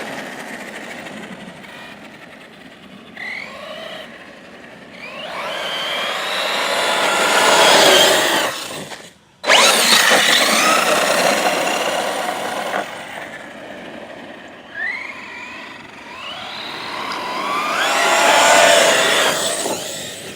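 Arrma Notorious 6S RC truck's brushless electric motor whining, rising and falling in pitch as the truck accelerates and runs past several times. The sound cuts out briefly about nine seconds in and then comes back loud.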